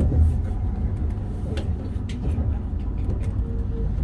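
Interior sound of a Meitetsu Panorama Super electric train running at speed: a steady low rumble with a few sharp clicks.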